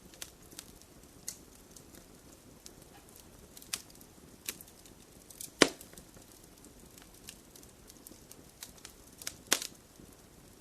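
Wood fire crackling in a fireplace: scattered sharp pops and snaps over a faint hiss, with the loudest pop about halfway through and another strong one near the end.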